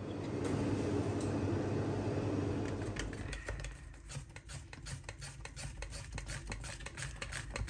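Kitchen utensil sounds: a steady rushing noise for about three seconds, then a fast, irregular run of clicks and taps like a utensil stirring and knocking in a bowl.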